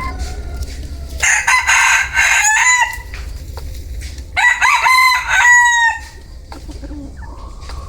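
A Vietnamese bantam rooster (gà tre) crowing twice, two shrill, strained crows a couple of seconds apart, with softer clucking between them.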